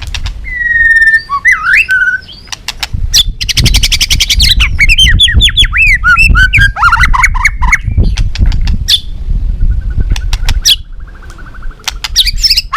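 White-rumped shama singing a varied song of clear whistles, sweeping slurred notes, fast rattling trills and sharp clicks, over a low rumble.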